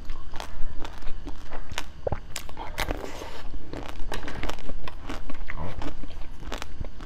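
Close-up eating sounds of biting and chewing a pink ball-shaped sweet on a stick: irregular sharp crunches and clicks, several a second.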